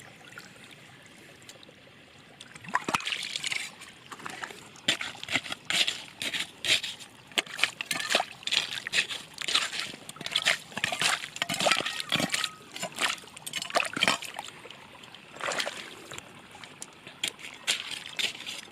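Water splashing and sloshing in quick, irregular strokes, with sharp clicks among them. It starts about two and a half seconds in and pauses briefly near the end.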